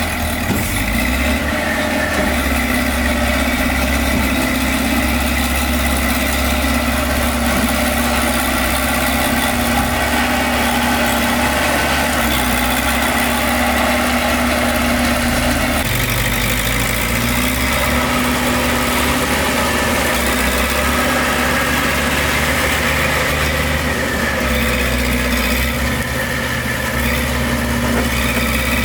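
Heavy construction machine's diesel engine running steadily, its note changing about sixteen seconds in.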